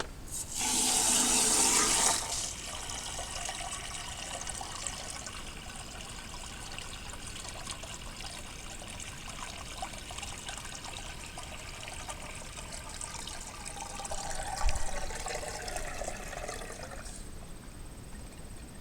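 Water from a hose running into a Cat D6B engine to fill it, a loud hissing gush for the first couple of seconds, then a steady pouring and filling sound that swells again and stops near the end.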